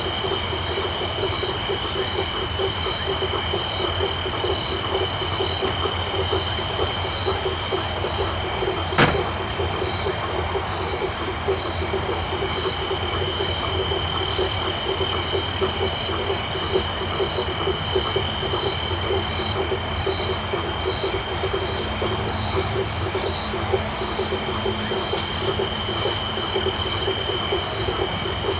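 Tropical night chorus of frogs and insects: a dense, fast-pulsing frog chorus, a steady high-pitched insect trill, and pulsed calls repeating evenly about once a second. A single sharp click sounds about nine seconds in.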